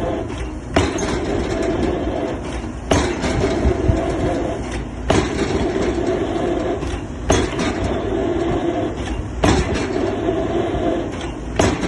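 Excavator-mounted drop hammer driving a square concrete pile: six heavy blows, about one every two seconds, with the excavator's engine running steadily between them.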